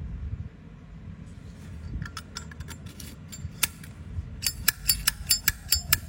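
Metal flip-top lighter being handled, with scattered clicks and then a quick run of sharp metallic clicks and clinks near the end, about four a second, as the hinged lid is snapped open and shut.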